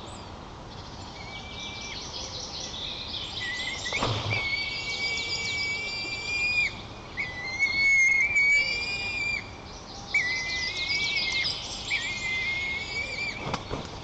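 A week-old white-tailed eagle chick begging, giving a series of drawn-out thin whistled calls, each held for one to two seconds. Other birds chirp and sing behind it, and there is one knock about four seconds in.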